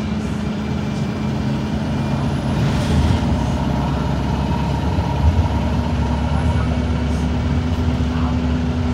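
Cummins ISB4.5 four-cylinder diesel of an Alexander Dennis Enviro 200 MMC bus running with a steady drone. Its pitch steps up slightly about six seconds in.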